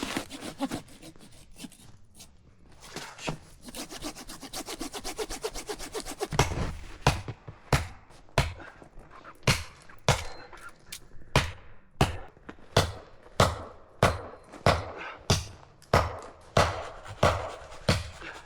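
Hand saw cutting through a branch of firewood: quick short strokes at first, then steady full strokes about one and a half a second.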